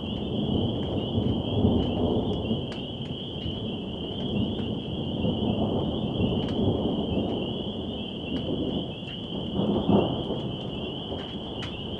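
Thunder rumbling low through a rainstorm, swelling about two seconds in and peaking in a sharper crack near the ten-second mark, with scattered sharp ticks of rain drops and a steady high-pitched drone behind it.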